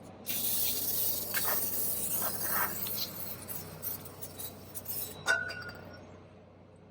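A spraying hiss for about three seconds, then a few light clicks and one sharp, ringing metallic clink of small parts, during roadside cleaning of the RV's clogged hydraulic fan system.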